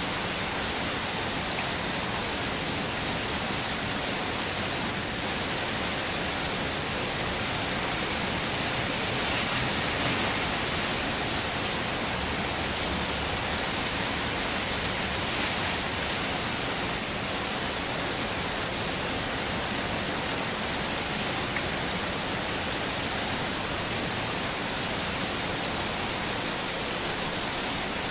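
Heavy rain falling steadily, an even hiss strongest in the high end, which thins out for a moment twice.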